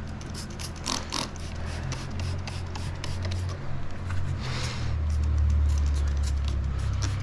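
Light clicks and scrapes of hands working a motorcycle tire on its wheel, over a steady low rumble that grows louder after about five seconds, with a short hiss about four and a half seconds in.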